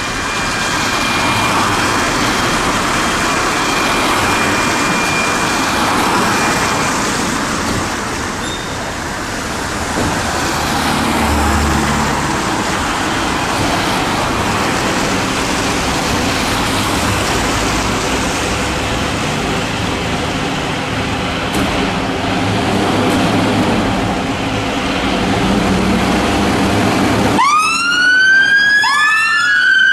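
Steady traffic and engine noise, then about 27 seconds in an abrupt switch to emergency-vehicle sirens wailing: two siren tones sweeping up and down and crossing each other.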